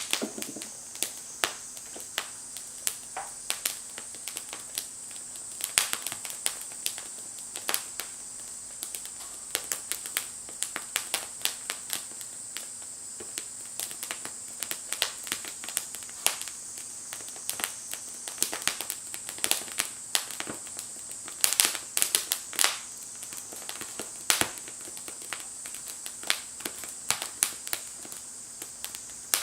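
Small wood fire crackling in a Firebox stove: irregular sharp pops and snaps, with a few louder clusters around a third and three quarters of the way through, over a steady high hiss.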